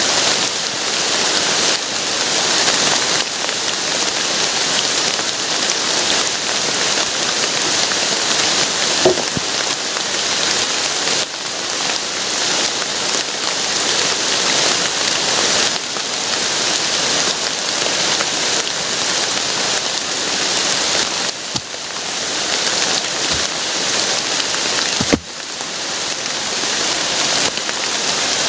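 Heavy rain falling steadily, with a couple of short sharp knocks, one about nine seconds in and one near the end.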